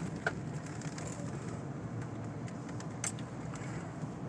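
Steady low engine and road noise inside a truck's cab while driving, with two brief sharp clicks, one near the start and one about three seconds in.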